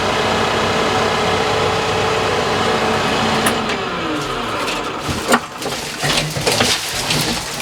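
TYM T754 tractor's Deutz diesel engine running steadily, then shut off about three and a half seconds in, its pitch falling as it winds down. A few knocks and clicks follow.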